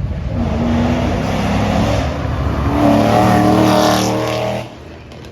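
Car engine revving hard, its pitch climbing from about three seconds in, then dropping away suddenly near the end.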